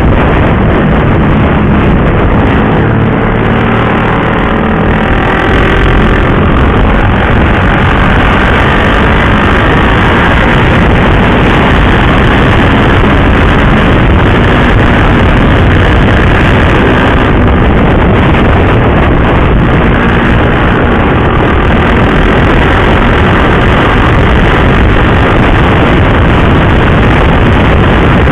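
KTM RC 390 single-cylinder motorcycle engine running under way, heard with loud wind rush on the rider's microphone; the engine note shifts in pitch during the first few seconds.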